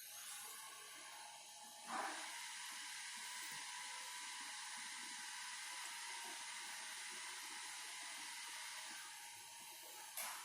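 Xiaomi Mijia 1C robot vacuum running, its suction fan giving a steady whirring hiss with a faint steady tone. A knock comes about two seconds in and another near the end.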